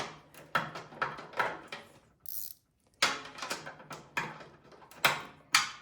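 Ratchet wrench clicking in quick repeated strokes as bolts on the snowblower are run down, with a short break a little over two seconds in.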